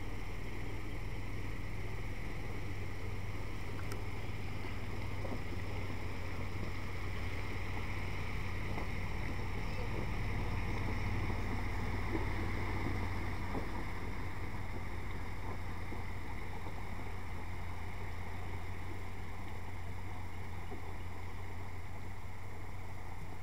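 A vehicle driving: a steady engine hum and road noise that swells slightly about ten to thirteen seconds in.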